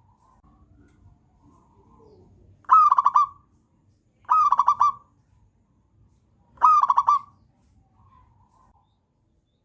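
Zebra dove (perkutut) cooing: three phrases, each a rising opening note followed by a quick rolling run of coos, with faint softer notes in the gaps between.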